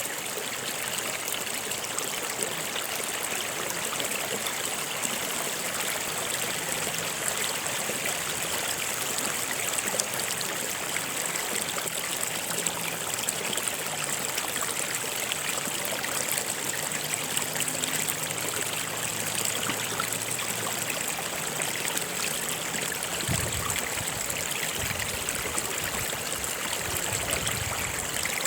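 Stream of water flowing steadily over rocks, a continuous rush with trickling.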